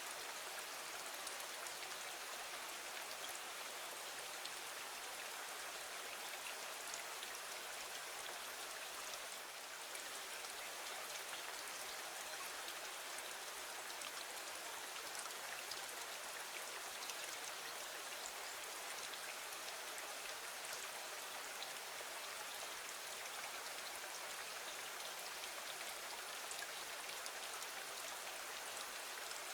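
Steady rain falling against a window, an even hiss with faint scattered drop ticks.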